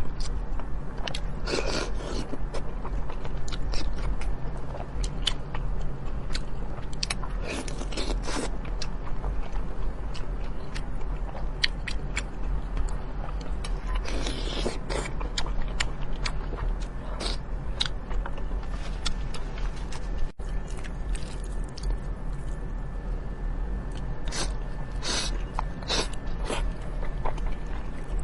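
Close-up eating sounds from deboned chicken wings being chewed: wet chewing, many short mouth clicks and a few louder bursts, over a steady low hum.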